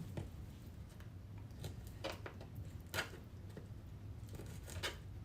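Faint, scattered clicks and light taps of shrimp being cut up during kitchen prep, over a low steady room hum.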